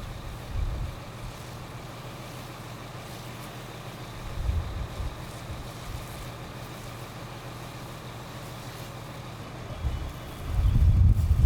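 Fire truck engine running steadily at the fireground, a constant hum, with gusts of wind buffeting the microphone a few times, the strongest near the end.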